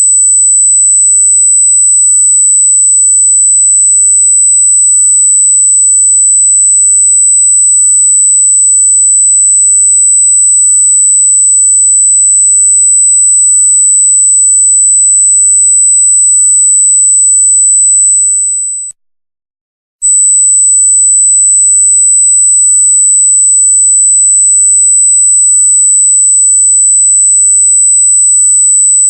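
A loud, steady, high-pitched pure electronic tone, a single sine wave. It fades out around two-thirds of the way through, stops for about a second, then comes back at full strength.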